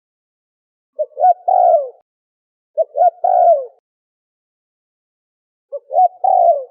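Spotted dove cooing: three calls, each about a second long, made of two short coos leading into a longer coo that falls in pitch. The calls are spaced two to three seconds apart, and the last is cut off at the end.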